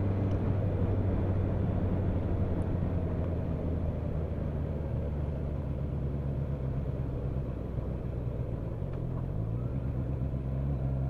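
Motorcycle engine running at a steady road speed under wind and road rush. The engine note eases slightly around the middle, then picks up again.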